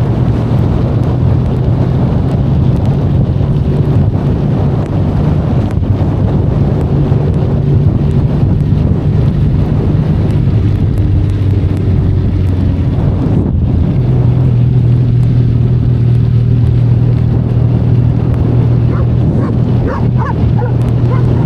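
Benelli Leoncino 500's parallel-twin engine running on the road, with wind and rain noise over it. The engine note shifts down a little past the middle, dips briefly about thirteen seconds in, then holds a steadier, higher note.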